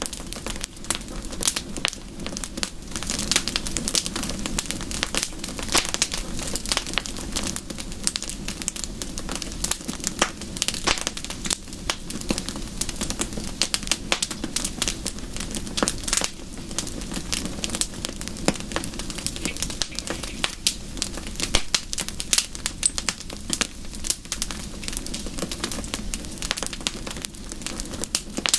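Wood fire crackling, with many small irregular pops and snaps over a soft, steady rush of rain.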